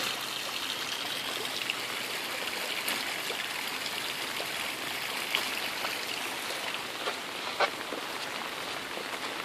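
Heavy rain pouring down, with runoff water running and trickling. The steady rush is dotted with scattered ticks of nearby drops.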